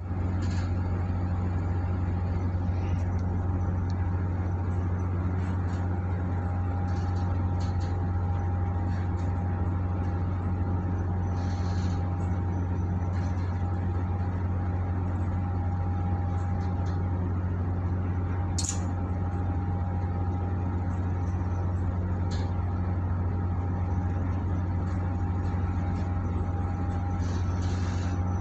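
Steady low drone of a supply ship's diesel engines running underway under towing load, with a thin steady whine above it. A single faint click comes about two-thirds of the way through.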